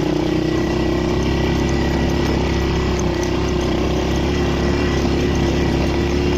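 ATV engine running at steady revs while riding.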